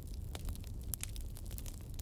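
Fireplace crackling: irregular small pops and snaps over a steady low rumble.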